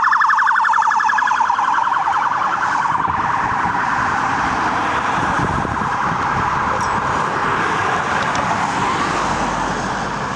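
Emergency vehicle siren in a rapid warble that blurs into a steadier wail after the first couple of seconds.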